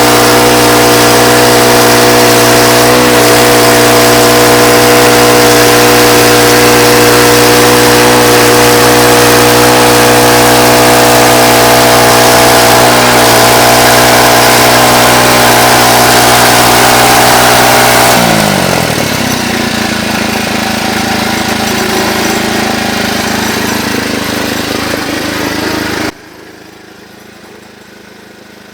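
Sawmill machinery runs steadily at speed, then winds down with a falling pitch about eighteen seconds in. A weaker steady noise carries on until it cuts off abruptly near the end.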